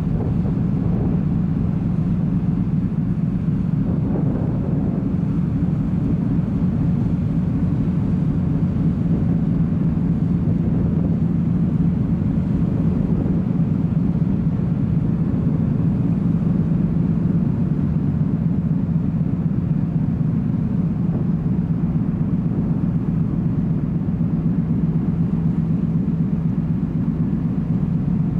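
Steady low drone of a car ferry's engines under way, heard on board the ship.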